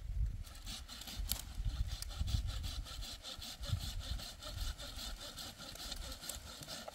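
Rhythmic rasping, about four short strokes a second, of a hand sickle cutting through dry wheat stalks, over a low rumble.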